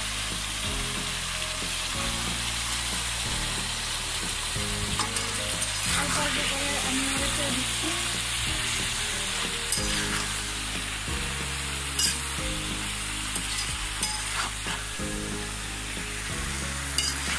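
Malabar spinach and hilsa fish head in masala sizzling steadily in a hot pan while a spoon stirs them, with a few sharp clicks of the spoon against the pan.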